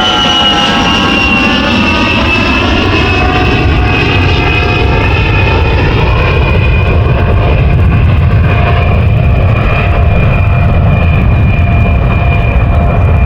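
Jet aircraft engine running loudly, a high whine over a deep rumble. The whine falls slowly in pitch over the first several seconds, then holds steady.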